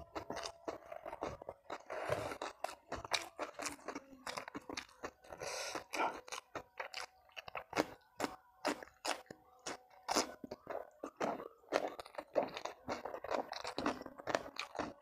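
Close-up chewing of crunchy food: a person munching, with many irregular sharp crunches throughout, several a second.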